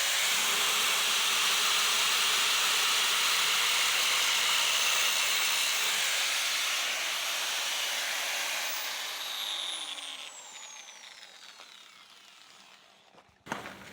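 Grinder with a small cutoff wheel running at full speed and cutting a shallow groove into sheet steel: a steady, high hiss. About eight seconds in it is switched off and its whine falls in pitch as the wheel coasts down, with a short knock near the end.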